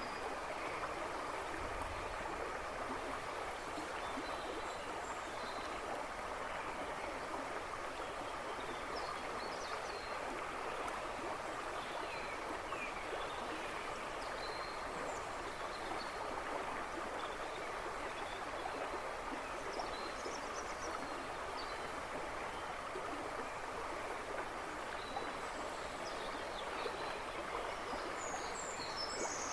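A shallow river running and babbling steadily over stones, with woodland birds chirping faintly in the background, a few more calls near the end.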